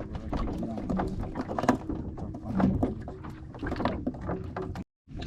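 Irregular knocks and clatter over a low rumble, from handling gear in a small fishing boat. The sound cuts off abruptly near the end.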